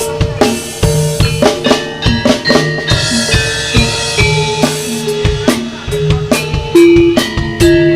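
Live Javanese jaranan (Turonggo) dance music: fast, dense drumming with many sharp strikes, over held pitched notes from melodic instruments.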